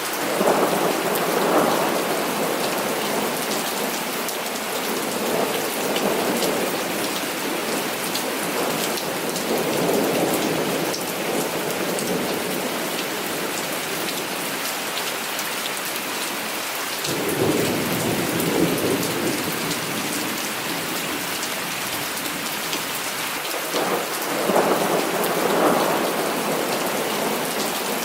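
Heavy rain falling steadily, with thunder rumbling in several long rolls that swell and fade, one breaking in more suddenly past the middle.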